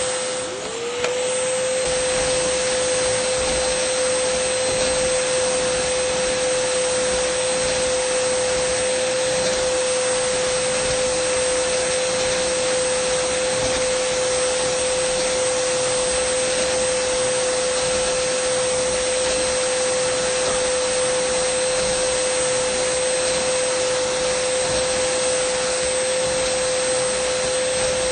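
Dyson vacuum cleaner running steadily: a rush of air under a steady motor whine. About a second in, the whine briefly dips and glides back up to its usual pitch.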